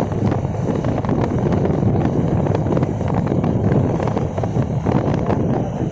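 Wind buffeting the microphone from a moving car, over a steady rumble of engine and road noise.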